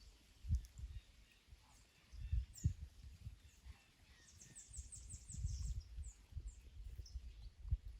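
Wind gusting on the microphone in irregular low rumbles, with small birds chirping now and then and a quick, high trill about halfway through.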